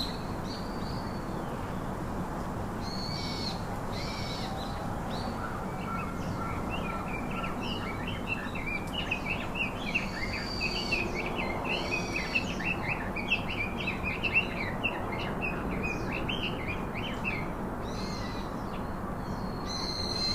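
Wild birds calling over a steady low background noise: scattered short whistled calls, then a long run of rapid chattering notes through the middle.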